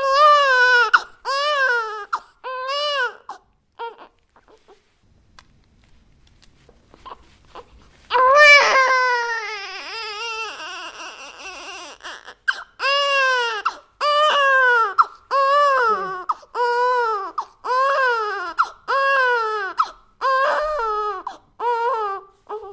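An infant crying in high-pitched, rising-and-falling wails: three short cries, a few seconds of quiet whimpers and breaths, one long drawn-out cry, then a steady run of cries about one a second.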